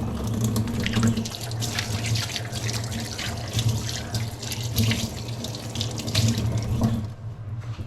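Kitchen tap running into the sink, water splashing irregularly as a chopping board is rinsed under it; the water stops about seven seconds in.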